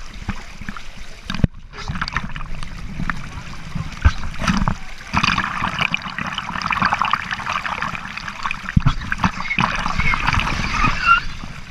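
Water rushing and splashing down a water-slide flume, with a low rumble and scattered knocks from a rider sliding along it, close up on the rider's camera. A brighter hiss of spray builds from about five seconds in.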